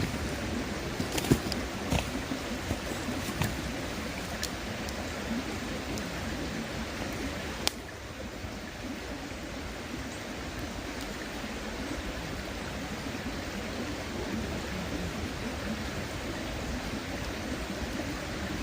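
Campfire wood crackling, with a few sharp pops in the first eight seconds, over the steady rush of a nearby river.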